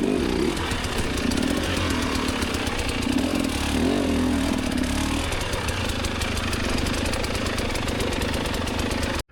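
Enduro dirt bike engine running, its pitch wavering up and down with the throttle, then cutting off suddenly near the end.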